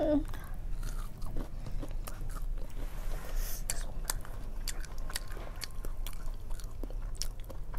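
Close-up eating sounds: chewing and biting of fried chicken and fried snacks, with many scattered crisp crunches and small mouth clicks, over a steady low hum.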